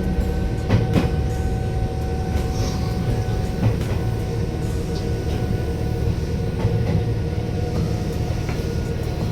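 Electric train running on rails: a steady low rumble with a steady hum and a few sharp clicks from the wheels.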